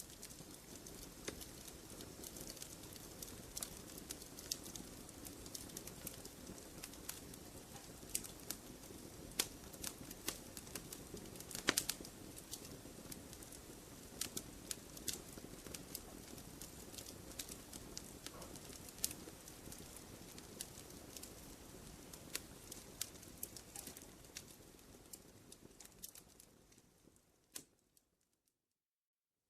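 Wood campfire crackling, with frequent sharp pops and snaps over a low steady rush of burning. It fades out near the end to a moment of complete silence.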